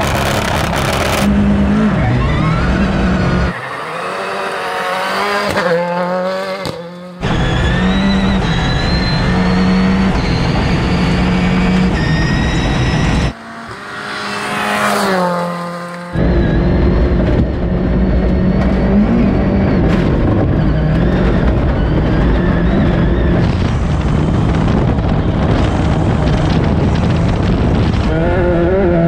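Ford Escort Cosworth rally car's engine being driven hard on gravel, its pitch repeatedly climbing and dropping through the gears. The sound is broken by several abrupt cuts.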